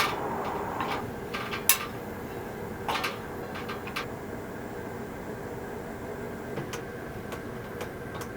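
A few sharp clicks and knocks, the loudest about two seconds in and another about a second later, over a steady hum.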